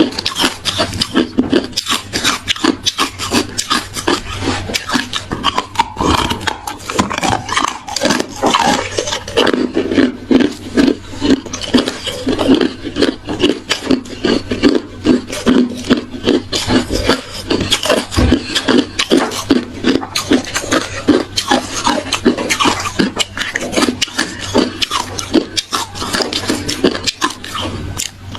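Hard ice being bitten and chewed close to the microphone: rapid, irregular crunching, several crunches a second.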